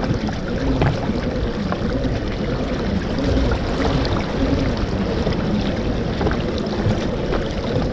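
Water splashing and lapping steadily, with many small clicks and ticks of droplets or contact, as around a kayak on the water.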